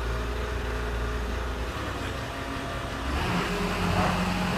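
Crane's diesel engine running steadily, its revs stepping up about three seconds in.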